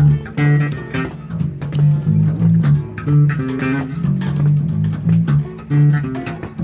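Bass guitar and guitar played live together, plucking a run of low notes in a repeating riff.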